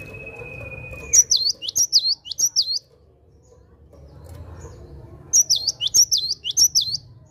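Cinereous tit (gelatik batu) singing in two bursts of four quick, loud, down-slurred high notes each, a repeated 'wucit wucit' phrase. A steady high tone runs until about a second in, under a low background hum.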